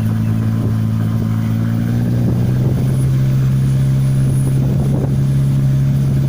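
Car engine running under load on an uphill drive through its loud aftermarket exhaust, heard from inside the car with the windows open, over low wind and road rumble. The engine note steps up slightly about two seconds in.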